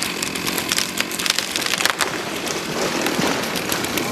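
Chainsaw cutting spruce, a dense rasping noise broken by many sharp crackles.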